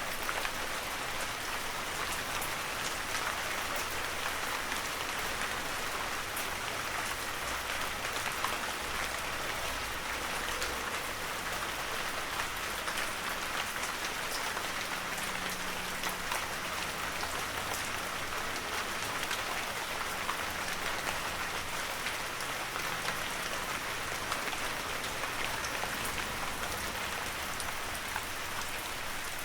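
Steady heavy rain falling, a continuous even hiss with many fine drop patters.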